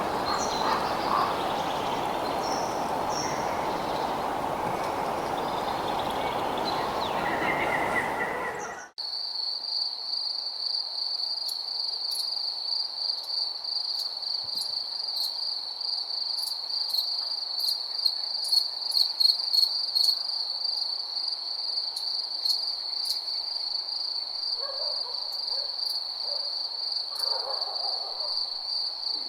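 For about nine seconds, a steady rushing noise with scattered bird chirps. It then cuts off abruptly into a night soundscape of crickets trilling in a steady, high, pulsing chorus, with lower calls near the end that sound like an owl hooting.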